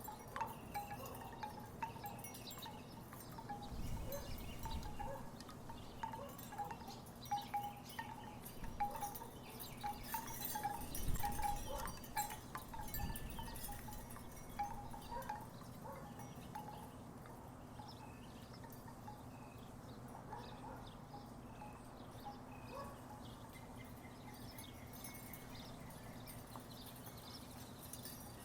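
Wooden tiki wind chimes clonking irregularly in short hollow knocks, busier in the first half and sparser later. Two brief low rumbles come about four and eleven seconds in.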